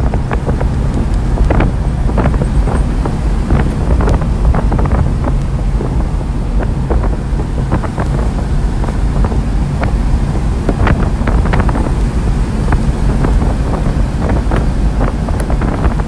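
Steady engine and road rumble heard from inside the cab of a 1995 Honda 4x4 mini truck picking up speed down a long hill, with wind noise and frequent light rattles and knocks throughout.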